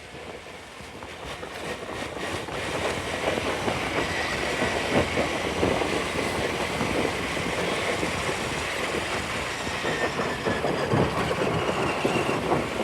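Steady vehicle and road noise that builds up over the first few seconds, then holds, with a faint thin whistle above it.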